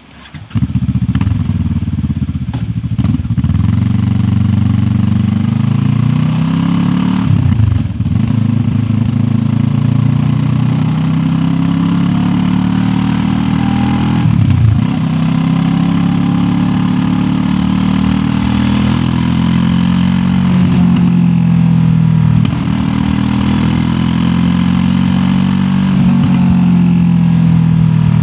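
QJ Motor SRT 700X parallel-twin motorcycle engine under way, pulling up through the gears. The revs climb steadily and drop back sharply at each shift, several times. It comes in suddenly about half a second in.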